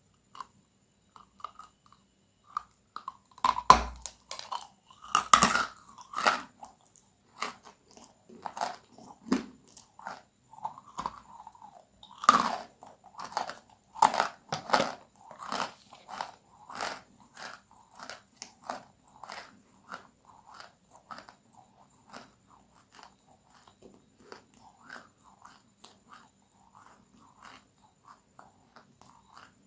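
A person biting into crunchy food and chewing it close to the microphone. There are loud crackling bites early on and again about twelve seconds in, then a steady rhythm of crunching chews that grows fainter toward the end.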